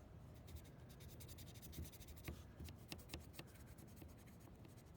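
Faint scratching of a marker pen writing on a wire to mark it, with small ticks and rubbing from handling the wire.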